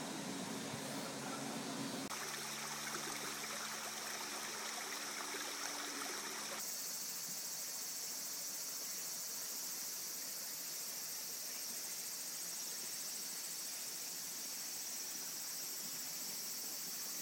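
Woodland nature ambience: a steady, high, even hiss that changes abruptly about two seconds in and again about six and a half seconds in, as the shots are cut together.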